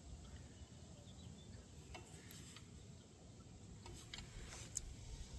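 Near silence over a low background rumble, with a few faint, short clicks and taps scattered through.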